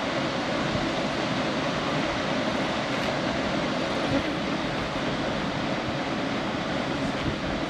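Steady roar of the Blue Nile Falls (Tis Issat Falls), a constant rush of falling water.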